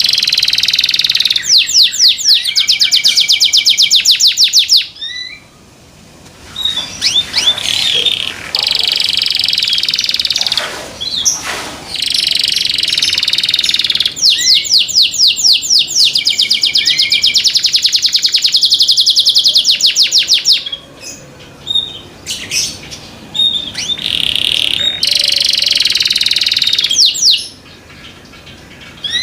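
Domestic canary singing loud, high-pitched song phrases built of rapid trills of repeated notes, with short pauses between phrases.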